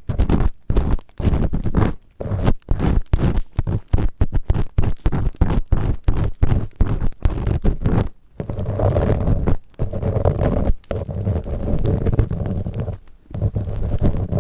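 An ear pick scraping inside a binaural microphone's ear in quick repeated strokes, several a second, giving a close, scratchy ear-cleaning sound. About eight seconds in it changes to a steadier, fuller rubbing against the mic's ear.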